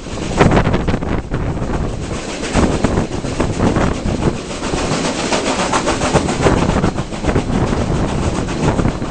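Passenger train running along the line, its wheels clattering over the rails in a steady stream of irregular knocks, with wind noise on the microphone.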